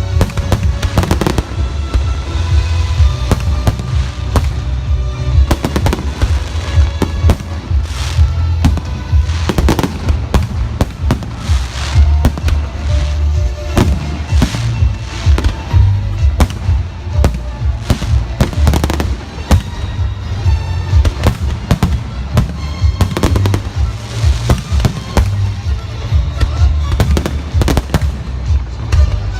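Fireworks salute: shell bursts going off in quick, overlapping succession, with deep booms, over music playing underneath.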